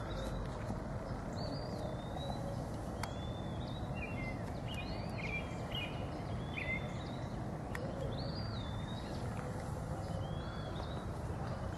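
Songbirds singing short whistled phrases, several every few seconds, over a steady background hiss.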